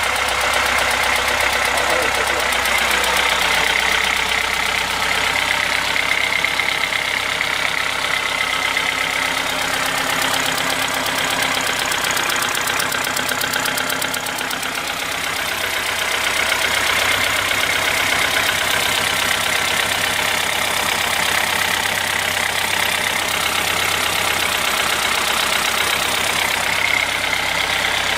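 Perkins 4-108 four-cylinder diesel engine running steadily with a diesel clatter, freshly restarted after a long lay-up on a new Lucas injection pump and re-set injectors. The sound dips briefly about halfway through, then comes back up.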